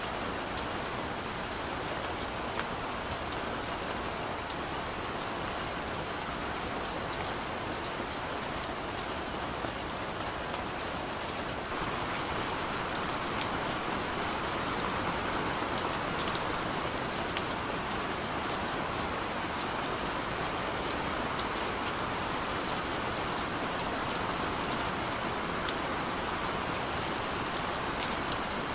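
Steady rain falling, with individual drops ticking here and there over the even hiss. It turns a little louder about twelve seconds in.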